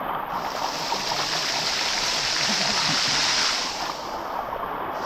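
Shallow water of a waterfall rushing and splashing over rock, a steady hiss that swells about a third of a second in and eases back a little after three and a half seconds.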